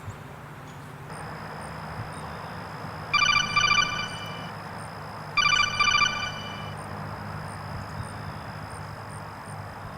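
Metal Gear Solid codec call alert ringing twice, each a rapid electronic trill of about a second and a half, signalling an incoming radio call.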